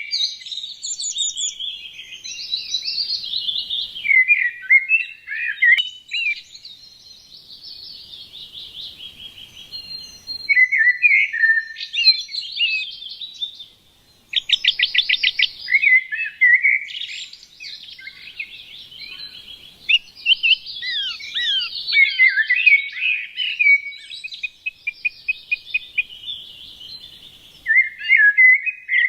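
Small songbirds chirping and twittering, with dense overlapping calls and rapid trills. There is a short break about halfway through, after which the chirping resumes.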